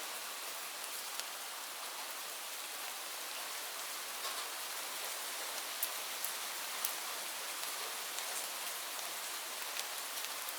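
Steady rain falling, an even hiss with scattered individual drops ticking on a hard surface.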